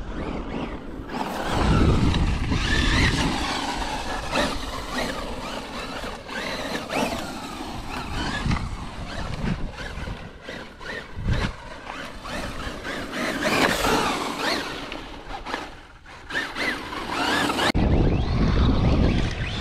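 Electric RC truck being driven over dirt ruts: its motor whine rises and falls with the throttle, over steady tyre and dirt noise, with heavy low rumbles twice.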